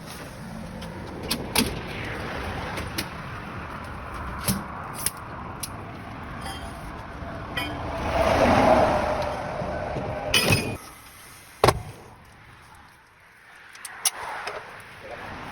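Clanks and sharp knocks of work on a truck's tyres, over steady vehicle noise. About eight seconds in there is a louder swell of noise, followed by two sharp knocks, before it goes quieter.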